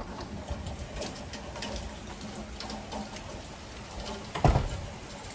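Rain falling, with scattered drips and taps, and a single loud thump about four and a half seconds in.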